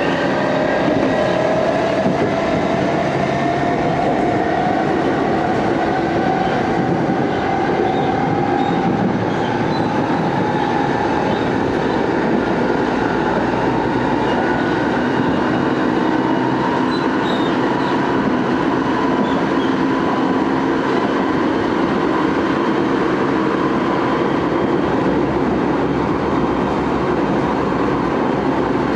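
Tokyo Metro 6000-series train car with a Hitachi three-level VVVF inverter, heard from inside the car. Its inverter and traction-motor whine rises slowly in pitch as the train gathers speed, then holds steady, over the rumble of wheels on rail. The car is known for an unusual inverter sound.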